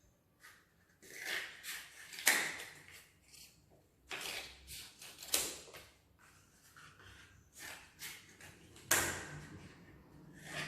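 Scissors snipping through cardboard toilet-paper tubes, crisp cuts coming in three clusters with pauses between.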